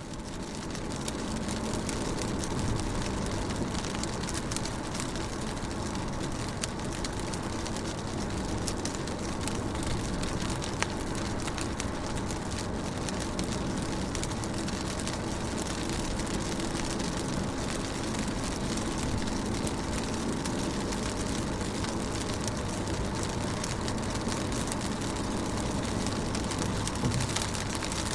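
Rain falling on a car: a steady hiss of rain with many small drop ticks on the window and body, fading in over the first second and then holding even.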